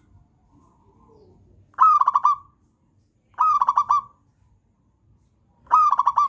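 Zebra dove (perkutut) singing: three short phrases, each an opening note followed by a quick run of rapid cooing notes, repeated every couple of seconds.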